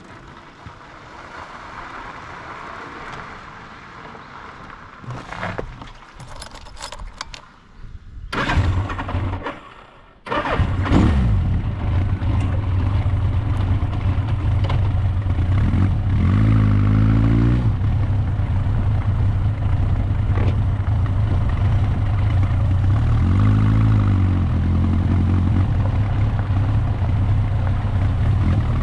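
Motorcycle engine: a few clicks and rattles, then it is started about a third of the way in and settles into a steady low-pitched run, with two short revs of the throttle later on.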